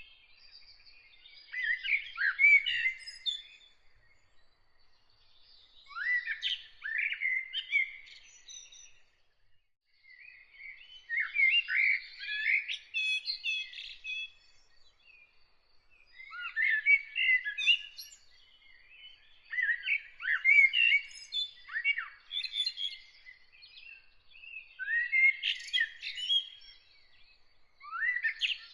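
A songbird singing a run of separate phrases, each about two to three seconds long with short pauses between them, about seven phrases in all. A faint, thin high trill runs in the background at times.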